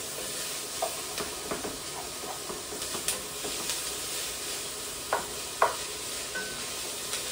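Chopped onion and red bell pepper sizzling in olive oil in a heavy enameled cast-iron pot, a steady hiss, while a wooden spoon stirs and scrapes the pot bottom with scattered soft knocks; two louder scrapes come about five seconds in.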